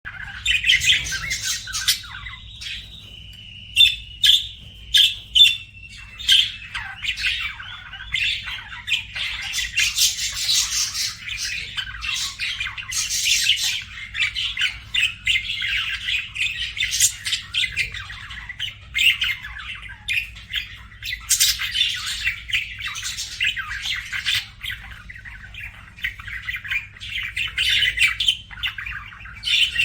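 Budgerigars chirping and chattering without a break, in quick, busy runs of high notes, over a steady low hum.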